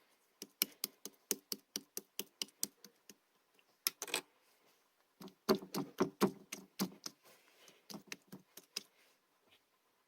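Opaque slime being squeezed and pressed by hand, making sharp popping clicks as trapped air pockets burst: a quick, even run of about five clicks a second, then a denser cluster of pops and squelches in the middle.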